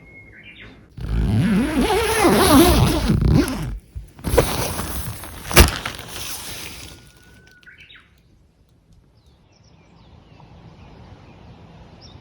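A few short bird chirps, interrupted for several seconds by a loud rushing noise with a brief dip midway and a sharp click.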